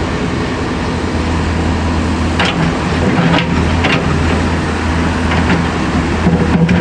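Heavy road-works machine's engine running steadily, with a few short knocks or scrapes about two and a half, three and a half and four seconds in.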